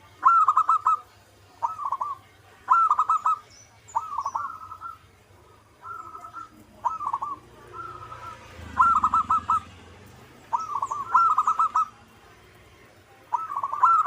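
Zebra doves (perkutut) cooing over and over, each phrase a quick run of rolling notes, coming about once every second or so, some loud and some fainter.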